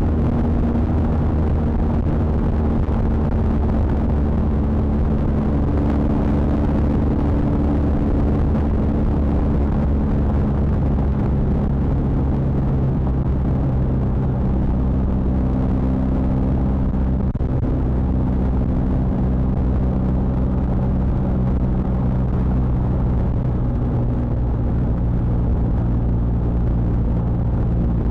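BMW R 1250 GS Adventure's boxer-twin engine running under way, a steady engine note heavy in the low end, its pitch shifting slightly a few times as engine speed changes.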